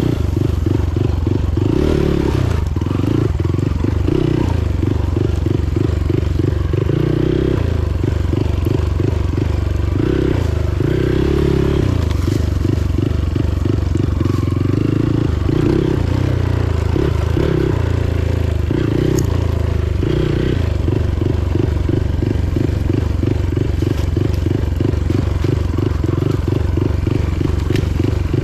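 Motorcycle engine running steadily while riding, with a rapid low pulsing.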